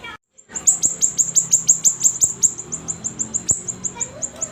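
Siri-siri bird singing vigorously: a rapid run of short, very high chirps, each sliding sharply downward, about four a second. The song breaks off briefly right at the start, then resumes.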